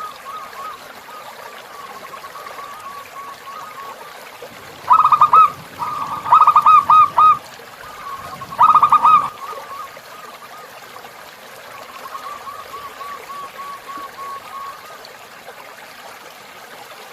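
Zebra doves cooing in rapid staccato runs of notes. Three loud bursts come between about five and nine seconds in, over softer cooing and a steady trickle of flowing river water.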